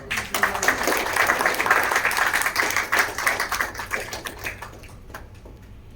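Audience applauding: a burst of clapping that starts suddenly, holds for about three seconds and dies away over the next two, with a few last scattered claps.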